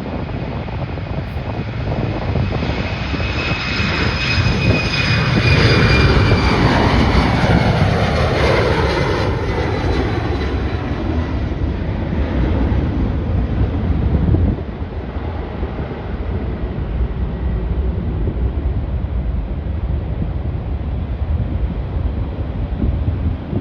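Airliner passing close by: engine noise with a high whine that falls in pitch as it goes past, loudest about six to nine seconds in, then fading.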